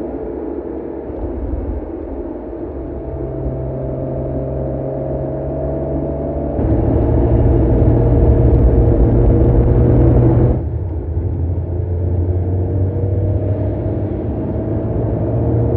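Mercedes-AMG CLE 53's 3.0-litre twin-turbo inline-six running under way: a steady low engine note with a slowly rising whine above it. About seven seconds in, the sound jumps abruptly louder for about four seconds, then drops back just as suddenly.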